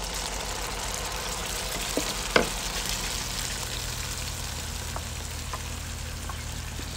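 Onions and green chillies sizzling steadily in ghee in an aluminium karahi as spiced yogurt batter is poured in and stirred with a wooden spoon. A sharp knock comes about two and a half seconds in, and a few lighter clicks follow.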